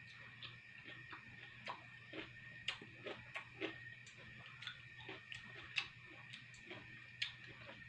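A person chewing food with the mouth closed, close to the microphone: soft, irregular mouth clicks and smacks, about two or three a second. A steady high-pitched tone and a faint low hum run underneath.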